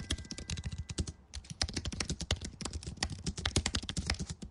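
Computer keyboard typing: a rapid, continuous run of keystrokes, with a brief pause about a second in.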